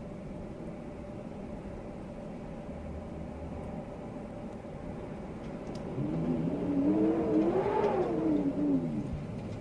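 Storm wind howling in a gust: a steady rushing background, then about six seconds in a loud pitched howl that rises to a peak and falls away again over about three seconds.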